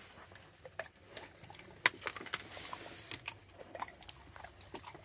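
A dog crunching peanuts: irregular small clicks and crunches, with one brief high squeak about three seconds in.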